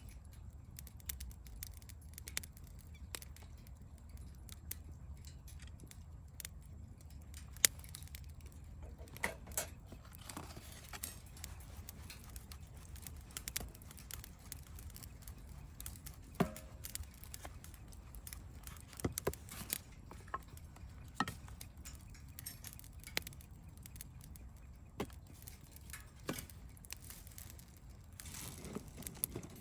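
Campfire crackling, with many irregular sharp pops over a low steady rumble.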